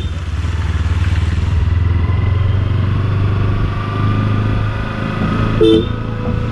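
Kawasaki Ninja 300's parallel-twin engine running steadily at low revs as the motorcycle rides along. A short beep sounds about five and a half seconds in.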